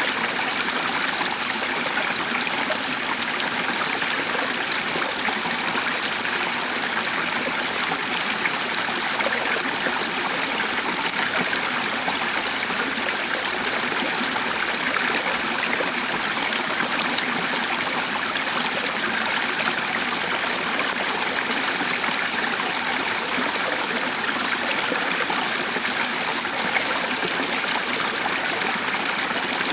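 Water running in a stream: a steady, even rushing and trickling that never breaks.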